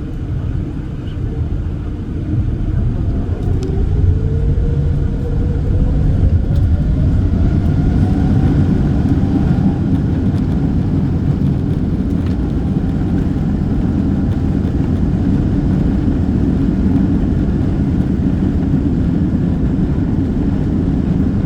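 Boeing 777-200ER's jet engines spooling up for takeoff, heard from inside the cabin. A whine rises in pitch over the first several seconds as the sound grows louder, then it settles into a steady, loud roar with low rumble: the takeoff roll.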